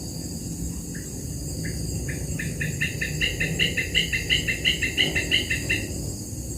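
A bird calling a series of repeated notes that start sparse and quicken to about six a second, then stop abruptly after about four seconds, over steady outdoor background noise.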